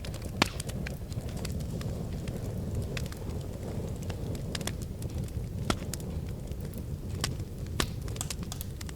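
Wood fire in a fireplace crackling, with a steady low rumble of the flames and irregular sharp snaps and pops. The loudest pops come about half a second in and a few more in the second half.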